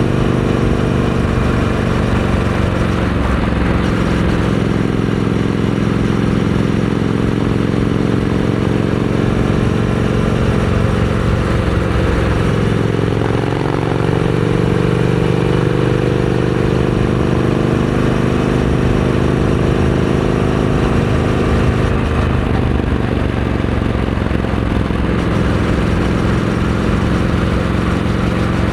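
Triumph Scrambler 900 parallel-twin engine running through a Vance & Hines aftermarket exhaust at a steady pace. The engine note dips briefly about halfway through, then picks back up.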